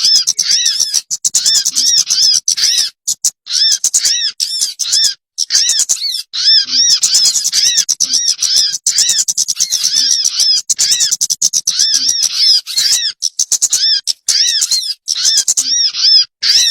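Bird-lure (pikat) recording of small birds calling: fast, harsh chattering with arched notes repeating about twice a second, broken by a few short pauses.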